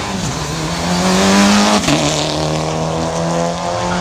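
Rally car engine accelerating hard, its revs climbing, then dropping sharply at a gear change about two seconds in before pulling on at a steadier, lower pitch.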